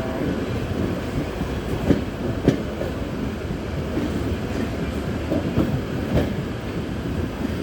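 Train running along the track: a steady rumble with occasional clacks of wheels over rail joints, the two sharpest about two and two and a half seconds in.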